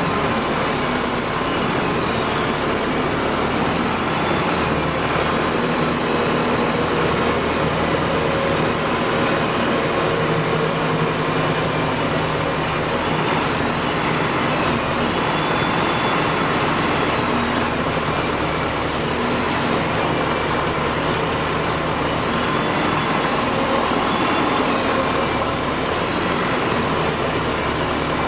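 Diesel engine of heavy farm machinery running steadily under way, its pitch shifting slightly as the engine speed changes.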